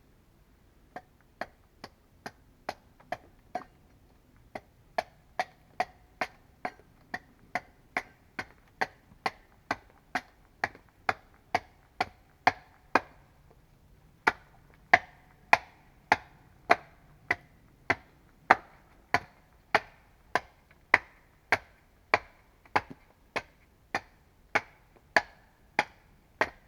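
Wooden mallet knocking a wooden nail into a log subfloor: a steady run of sharp wood-on-wood blows, about two a second, with a short pause about halfway and harder blows after it.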